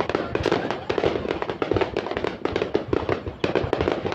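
Aerial fireworks going off: a rapid, irregular string of sharp bangs and crackles, several a second.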